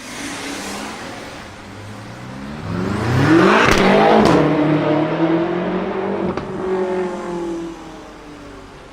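Straight-piped 4.4-litre twin-turbo V8 of a modified BMW M5 F10 accelerating hard and passing by: the engine note rises to its loudest about three to four seconds in, with a few sharp cracks, then drops in pitch and fades away.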